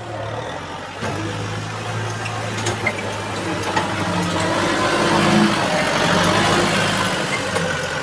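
A tractor engine running steadily while it pushes soil. It grows louder toward the middle as it works harder, then eases a little near the end, with a few short knocks.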